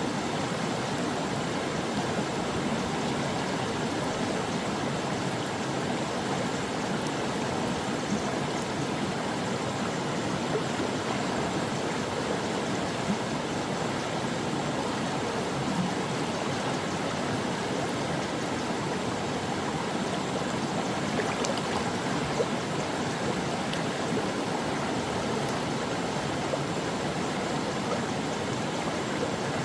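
A brook or mountain stream flowing over rocks, with a steady rush of water and small splashes.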